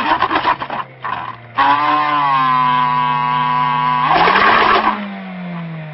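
Car engine running with a bicycle inner tube stretched over its exhaust pipe, giving a steady buzzing drone with a strong pitched tone. About four seconds in it is revved in a short surge, the pitch rising and then sinking back.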